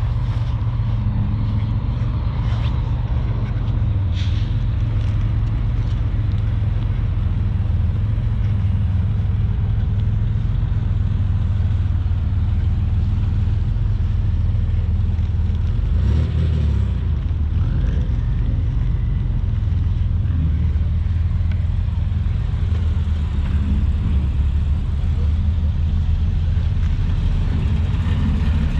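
A vehicle engine running steadily, a low even drone, with a small change in pitch about halfway through.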